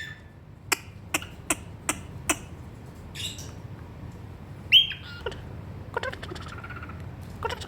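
Cockatiel calling: five sharp clicks spaced under half a second apart, then scattered chirps, the loudest a short, sharp chirp a little before the five-second mark.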